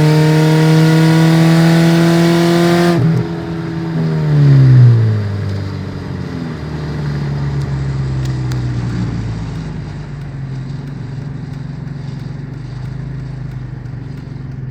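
Mercedes CLK230 Kompressor's supercharged 2.3-litre four-cylinder running with no muffler. It is held at high revs with the pitch slowly rising, then the throttle is released about three seconds in. The revs fall away over the next few seconds, loudest just after the release, and the engine settles into a steady idle.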